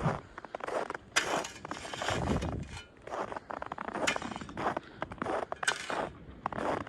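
Footsteps crunching through icy, crusted snow, one step about every half second to a second, with glassy crackling from the ice crust.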